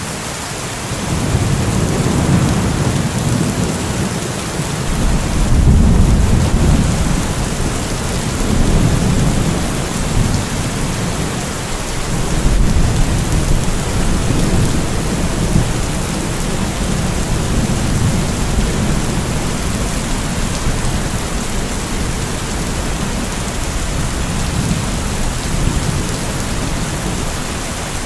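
Steady heavy rain hissing, with thunder rolling underneath in repeated low rumbles that swell and fade, the strongest about six seconds in and again about twelve seconds in.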